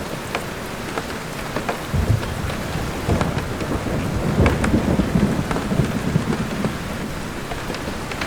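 Steady rain, with sharp ticks of individual drops landing close by. A roll of thunder comes in about two seconds in, swells, and dies away shortly before the end.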